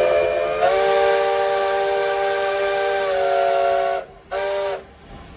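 Steam whistle of Nevada Northern locomotive No. 81 blown in one long blast, several notes sounding together, its pitch stepping up slightly as it opens fully about half a second in. After a short break near four seconds in comes a brief second blast.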